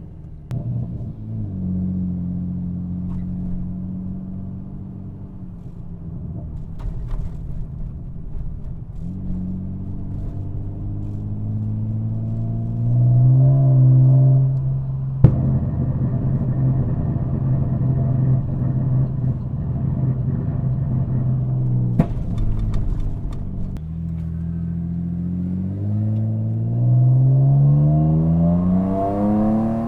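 Nissan Skyline ER34's engine on the move: steady cruising, then the revs climb about twelve seconds in. A sharp crack comes about fifteen seconds in and another about twenty-two seconds in, and near the end the revs rise again as the car accelerates.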